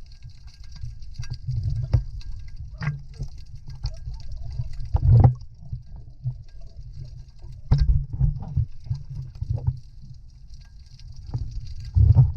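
Muffled water sloshing and splashing with a low rumble, broken by several sharp knocks; the loudest knocks come about five seconds in, near eight seconds and near the end.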